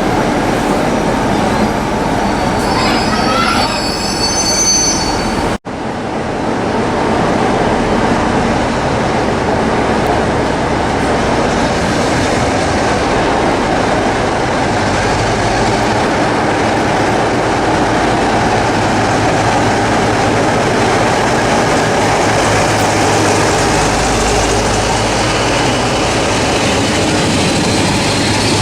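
A train moving past at close range, with continuous wheel and rail noise; the sound breaks off for an instant about five and a half seconds in, then carries on steadily, with a low hum joining from about halfway.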